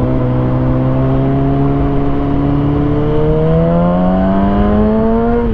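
2020 Kawasaki Ninja ZX6R's inline-four engine through a Lextek SP7C carbon exhaust with decat headers, running steadily at low revs, then rising gradually in pitch over the last few seconds as the bike accelerates gently.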